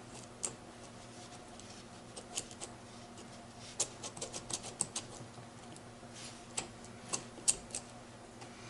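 Light, scattered metallic clicks and ticks of a gearbox synchro hub being worked back and forth by hand on the mainshaft, checking that it slides freely. The clicks come in loose clusters over a faint steady hum.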